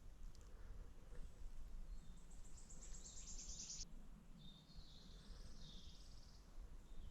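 Faint woodland birdsong: a rapid high trill of evenly repeated notes lasting nearly two seconds, then shorter high warbling phrases, over a low background rumble.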